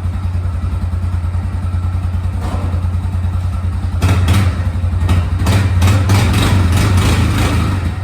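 Yamaha Grizzly 350 ATV's single-cylinder four-stroke engine running warmed up at a steady idle. About halfway through it gets louder, with a run of sharp knocks and clatter, then settles back near the end.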